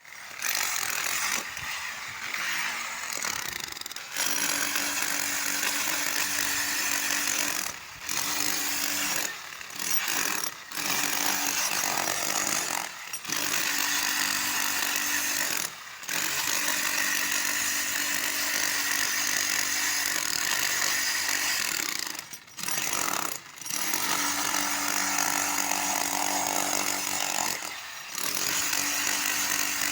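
Power tool running with a loud, steady noise over a low hum, broken by short drops every few seconds.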